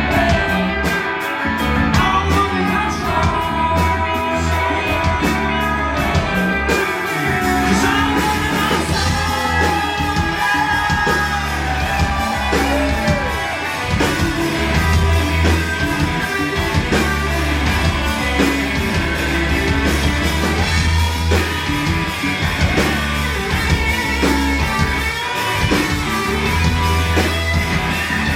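Live rock band performing: sung vocals over electric guitar, bass and drums, heard as loud concert sound with the drums growing busier about seven seconds in.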